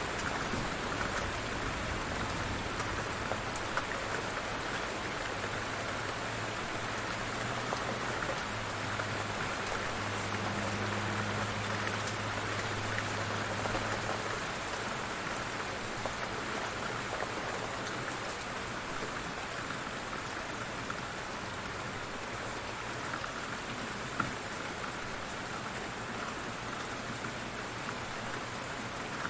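Light rain falling steadily, with individual drops ticking; a low hum underneath fades out about halfway through.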